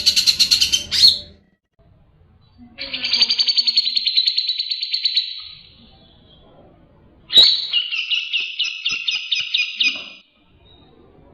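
Cucak jenggot (grey-cheeked bulbul) singing in three fast, chattering phrases of rapidly repeated notes, each a couple of seconds long, with short pauses between them. The third phrase opens with a sharp note.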